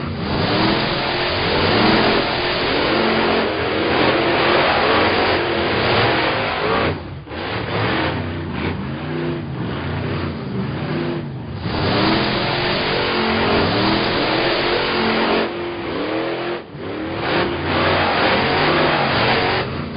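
Cartoon car engine sound effects: engines revving up and back down again and again, with a few short breaks.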